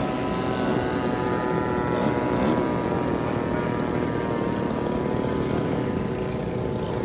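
Radio-controlled model airplane engines running steadily in flight, a buzzing propeller drone with slightly wavering pitch.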